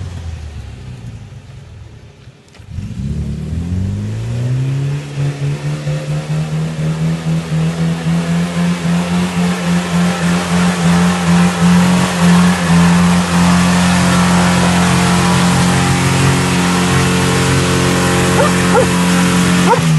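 UAZ-469's stock UMZ-417 four-cylinder petrol engine revving up about two and a half seconds in and held at high revs, with the level pulsing, as the vehicle climbs off-road.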